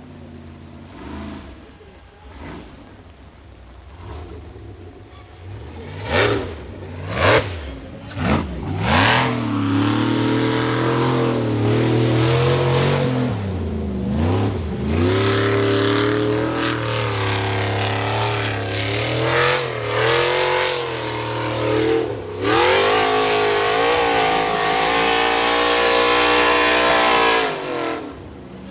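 Rock bouncer buggy's high-horsepower engine: a few short sharp revs, then held at high revs under load for most of the time, its pitch rising and falling with a couple of brief dips as the throttle is eased and reapplied.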